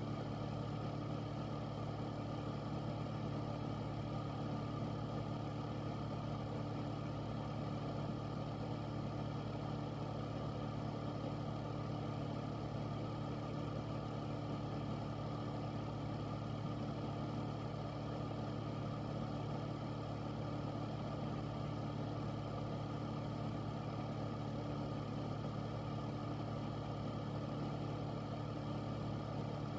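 Air purifier fan running steadily: a constant low hum with a few steady tones and a soft rush of moving air, unchanging throughout.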